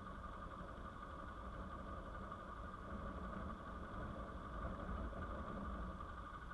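Hero Xpulse 200's single-cylinder engine running steadily.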